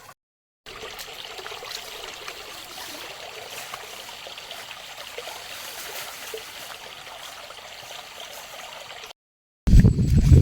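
Steady flowing water, a small stream trickling. Near the end, after a brief silence, a much louder low rumbling sound with knocks starts suddenly.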